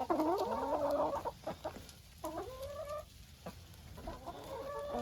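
Hens clucking, with a few drawn-out, wavering calls: one in the first second, another about two seconds in, and more building near the end.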